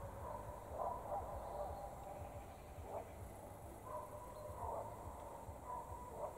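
Faint outdoor ambience: soft, irregular bird calls over a low rumble.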